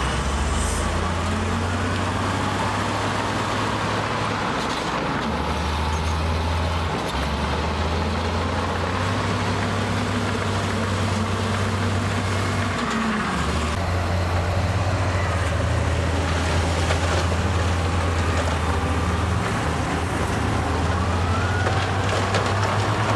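Heavy diesel earthmoving machinery engine running continuously, its pitch stepping up and down every few seconds as the revs change. A fainter whine glides up and down in pitch a couple of times.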